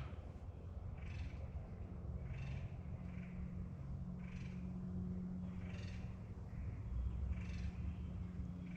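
An animal calling over and over, short calls about every second and a half, over a steady low hum.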